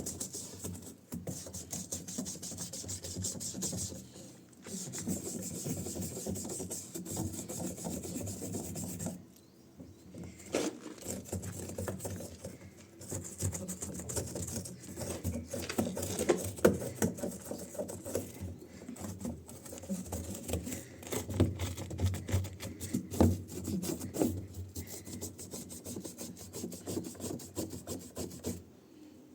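Vigorous hand scrubbing: rapid, irregular rubbing strokes with a few short pauses, the first about four seconds in.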